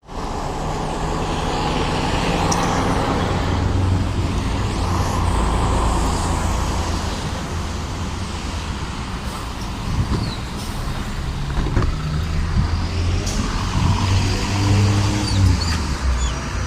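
MAZ 103 city bus diesel engine running, heard from inside the bus: a low hum whose pitch shifts and climbs in the last few seconds as the bus speeds up, with a couple of sharp knocks and rattles along the way.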